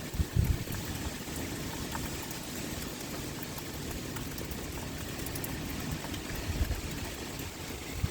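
Steady heavy rain pouring, with scattered sharp drop ticks. Two brief low rumbles rise through it, about half a second in and again near the end.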